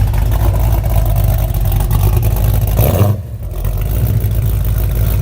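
Muscle car's V8 engine running loud with a deep, steady exhaust note, dropping off briefly about three seconds in.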